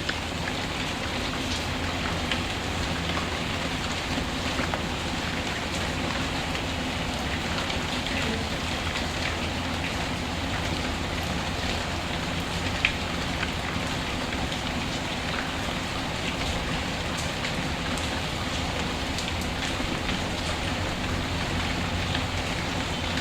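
Steady rain pattering, with scattered small ticks and crackles from a wood fire in a fireplace and one sharper pop about halfway through.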